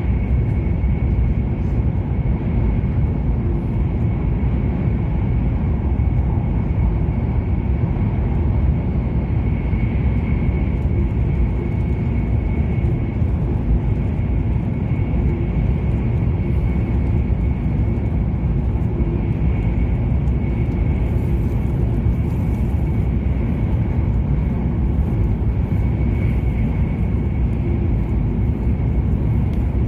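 Steady cabin noise of an E7 series Shinkansen running at speed: a low rumble from the running gear and air rushing past, with a faint steady high whine over it.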